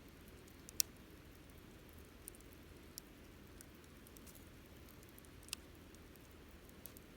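Wood campfire crackling: sparse sharp pops and snaps of burning wood over a faint low hiss, with louder pops about a second in and about five and a half seconds in.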